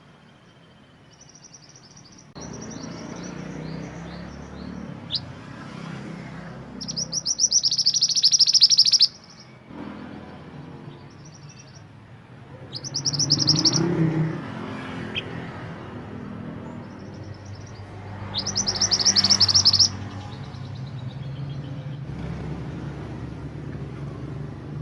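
Mantenan gunung songbird singing in short phrases of rapid repeated high notes. Three loud phrases come about seven, thirteen and eighteen seconds in, over a steady low background rumble.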